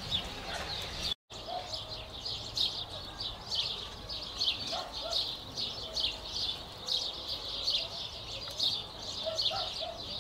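Small birds chirping continuously outdoors, a dense run of quick, high chirps. The sound cuts out completely for a moment about a second in.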